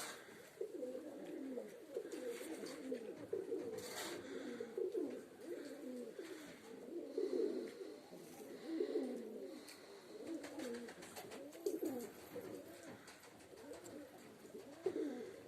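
Domestic pigeons cooing, several birds overlapping in a continuous run of low, rolling coos, with a brief click about four seconds in.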